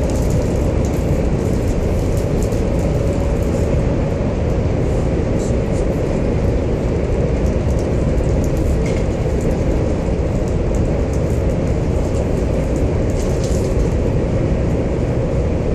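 Steady low rumble of a high-speed train running at speed, heard inside the passenger car, with faint scattered ticks and rattles on top.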